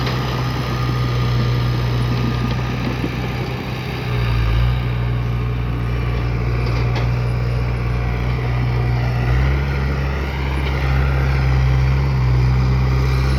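Bulldozer's diesel engine running steadily, its low note stepping up about four seconds in and again near ten seconds.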